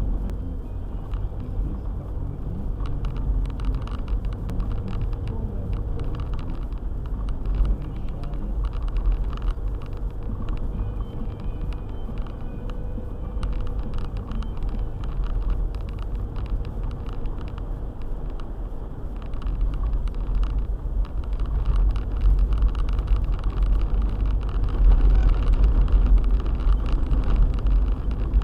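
A four-wheel-drive car driving on a snow-drifted road: a steady low rumble of engine and tyres with many small clicks and knocks over it, getting louder near the end.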